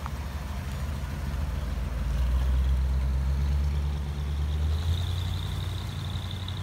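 1957 Ford Thunderbird's 312 cubic-inch D-code V8 running as the car drives past and pulls away, its low engine note loudest a couple of seconds in and then fading as it moves off. A thin, steady high-pitched tone sounds faintly in the background from about halfway in.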